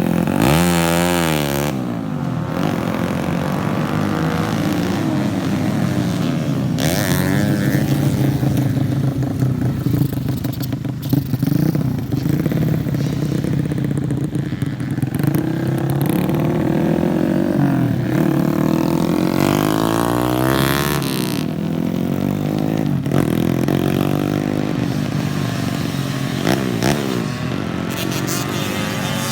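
Several racing motorcycles running hard on a circuit, their engines revving up and down through the gears as they go by. Bikes sweep past with a falling pitch about a second in, again around seven seconds and around twenty seconds.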